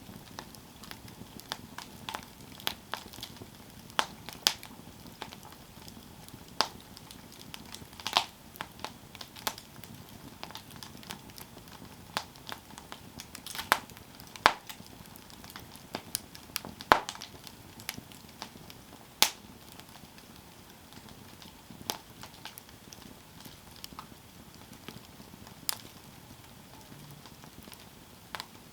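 Campfire crackling: wood burning with sharp, irregular pops and snaps, a few louder ones standing out, over a faint steady hiss.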